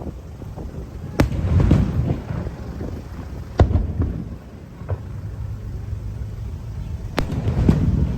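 Aerial fireworks shells bursting: three sharp bangs, about a second in, midway and near the end, each trailed by a low rolling rumble, with smaller crackling pops in between.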